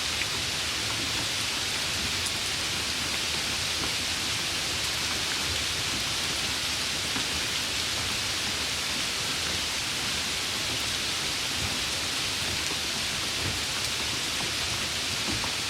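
Steady rain falling, an even hiss that neither swells nor lets up.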